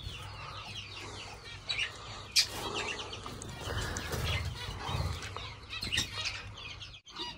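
Small cage birds chirping and calling in short, scattered bursts, with a few brief rustles.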